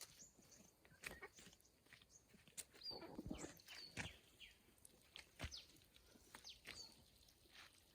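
Faint outdoor animal sounds: scattered short, high chirps that fall in pitch, with a few sharp clicks.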